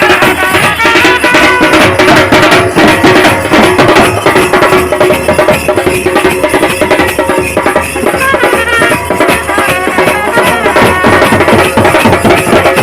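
Traditional folk band music, loud and continuous: drums beaten fast with a sustained melody played over them.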